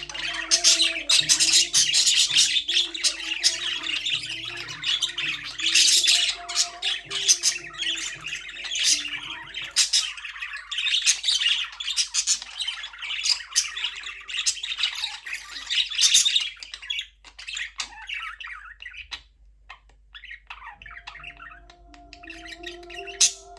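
Budgerigars chirping, many rapid high calls packed close together, thinning out to scattered chirps after about seventeen seconds.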